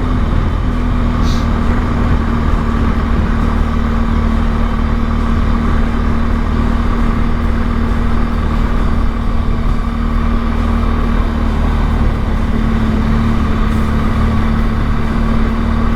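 Motorcycle engine running steadily while riding, a constant hum over a low rumble.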